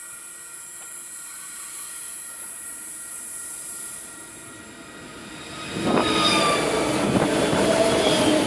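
Locomotive-hauled train arriving and passing close. It becomes loud about six seconds in, with wheels squealing in wavering high tones over the rumble.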